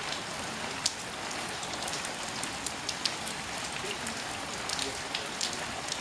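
Steady rain shower falling on a puddle and wet ground, an even hiss with frequent sharp ticks of single drops landing.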